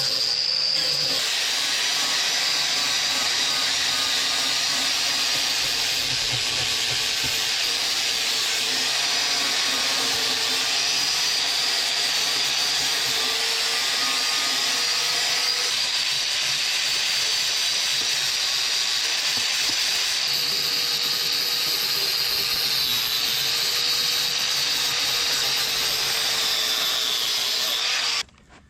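A handheld electric power tool, such as a grinder, runs steadily with a high whine and a hissing rasp as it cleans rust off steel tank straps. The sound drops out suddenly for a moment near the end.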